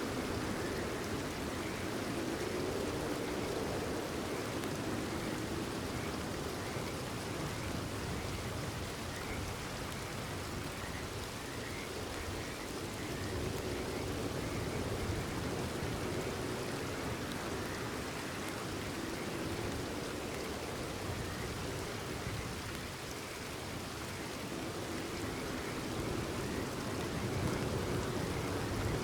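Steady rainfall, with frogs calling faintly and repeatedly behind it.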